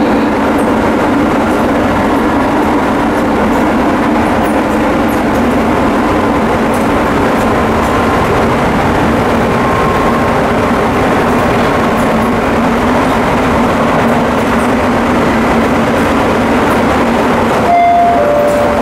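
Chiba New Town Railway 9800-series electric train running at speed between stations, heard from inside the car: a steady rumble of wheels on rail with a motor hum. Near the end there is a brief louder moment with a short tone that steps down in pitch.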